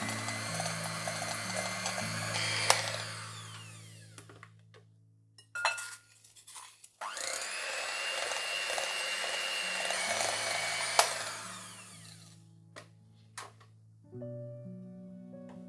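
A small electric kitchen appliance motor runs in two bursts. Each time it whirs steadily and then winds down with falling pitch; the second burst starts with a rising whine. A few clicks fall between the bursts, and soft background music with held low notes plays underneath.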